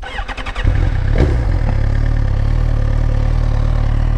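Suzuki GSX-R1000 K7's inline-four engine being started: a brief crank on the starter, then it catches under a second in and settles into a steady idle.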